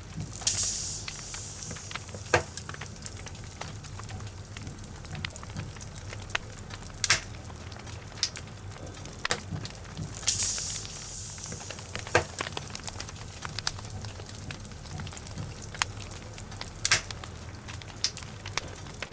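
Wood logs burning in a fireplace: irregular sharp crackles and pops over a steady low rumble, with a brief hiss about half a second in and again about ten seconds in.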